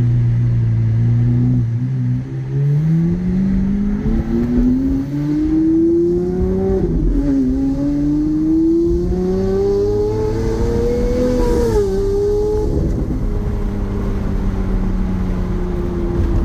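Lamborghini Aventador SuperVeloce's naturally aspirated 6.5-litre V12 through a Gintani F1 exhaust, running steadily, then pulling up through the revs under acceleration. Two quick upshifts, about seven and twelve seconds in, each drop the note before it climbs again, and it settles to a steady cruise.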